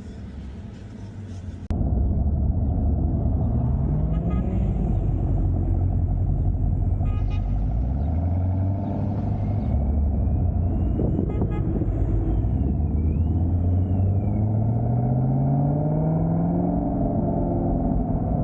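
Car V8 engine accelerating hard. Its pitch climbs through each gear and drops back at the shifts, three or four pulls in all. The engine sound jumps much louder about two seconds in.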